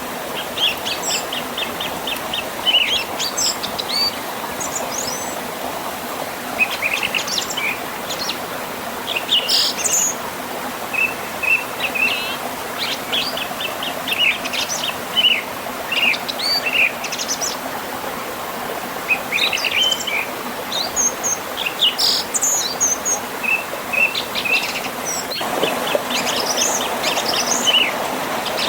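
Songbirds chirping and trilling over the steady rush of a forest river and small waterfall. The water grows louder near the end.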